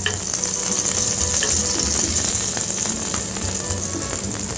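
Seared foie gras slices sizzling in hot fat in a frying pan, a steady hiss, with a few faint clicks near the start and about a second and a half in.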